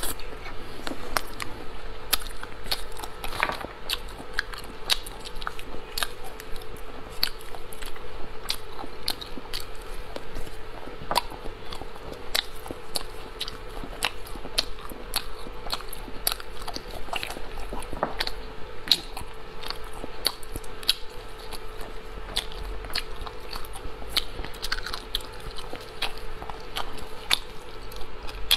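Close-miked eating of spicy snails: a steady run of wet chewing, smacking and crunching clicks, several a second, over a faint steady hum.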